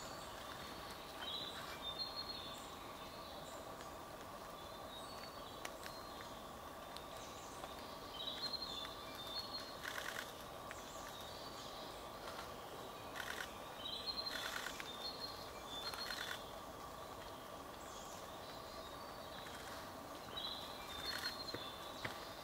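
Woodland ambience: a songbird sings a short high phrase about every six seconds over a steady faint hum. A few brief noisy rasps come near the middle.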